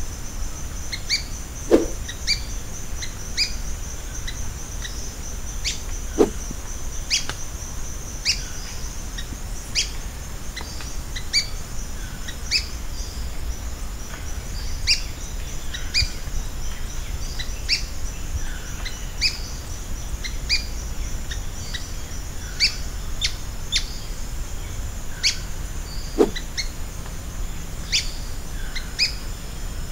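Ochre-bellied flycatcher calling: a long series of short, sharp notes repeated at about two a second, over a steady high-pitched buzz.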